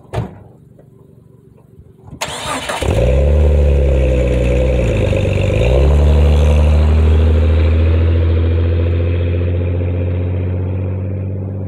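2001 Jeep Cherokee XJ started cold through its 2.5-inch side-exit exhaust and Nexus muffler: a click, then about two seconds in a short spell of starter cranking before the engine catches. Its revs dip briefly and come back up, then it settles into a steady fast idle.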